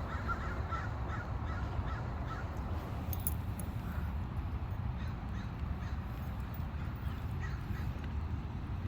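Crows cawing: a quick run of calls in the first couple of seconds and a few fainter ones later, over a steady low rumble.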